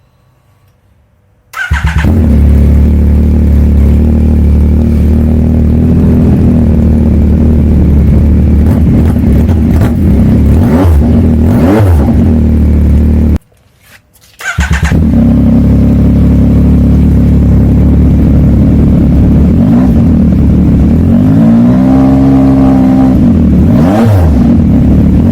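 2023 Yamaha MT-09's 890 cc inline-three running loud through an aftermarket full exhaust with the dB killer out. It comes in suddenly about two seconds in, with quick throttle blips. It drops out briefly about halfway, then returns with a longer rev that rises and falls near the end.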